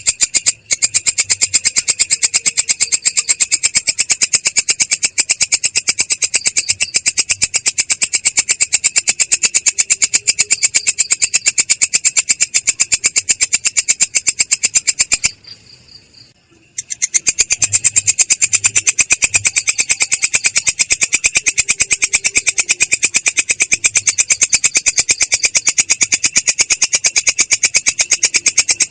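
Insect stridulation, a cricket or small singing grasshopper, as a rapid, even train of high, shrill pulses. It breaks off for about two seconds roughly halfway through, then resumes.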